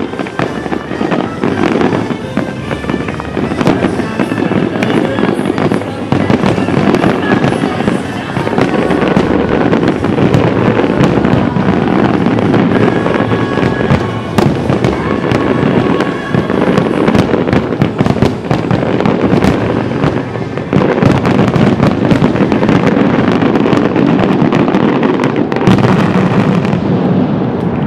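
Aerial firework shells bursting in a dense, unbroken barrage of bangs and crackling, the saturated volley of a display's grand finale. Music plays underneath.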